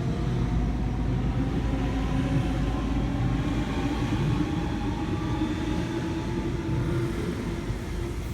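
Waratah electric train pulling away from the platform: its traction motors give a slowly rising whine over the rumble of the wheels on the track, the whole sound easing off near the end as the train leaves.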